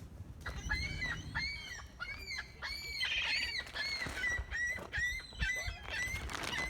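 Birds calling over and over: a quick series of short, high calls that each rise and fall in pitch, about two a second.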